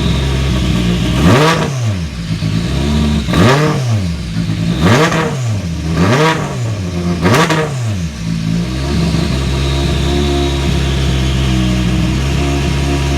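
Toyota Yaris WRC rally car's turbocharged 1.6-litre four-cylinder engine idling and blipped five times in quick succession, each rev rising sharply and falling straight back to idle, then idling steadily again.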